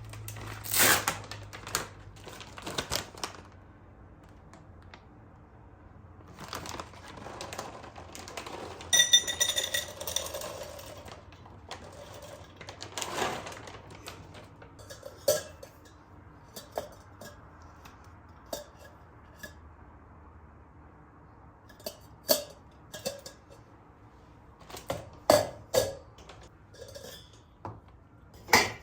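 Dishes and utensils being handled: scattered sharp clinks and knocks, with a brief ringing clink about nine seconds in.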